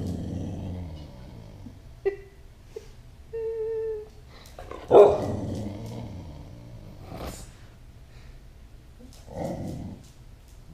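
A dog barking: one loud bark at the start and another about five seconds in, with a short whine in between and a softer bark near the end.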